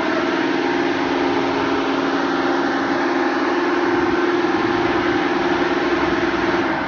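Automatic car wash machinery running: a loud, steady motor hum over a dense hiss of spray or air, the hum dropping away near the end.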